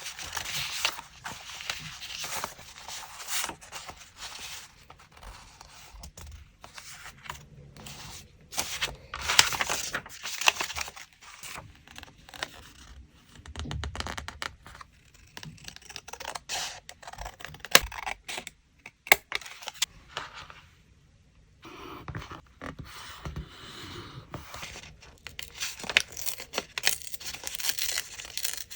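Paper being handled up close for a collage: scraps rustled, torn and scraped, with a few sharp taps and a brief pause about two-thirds of the way through.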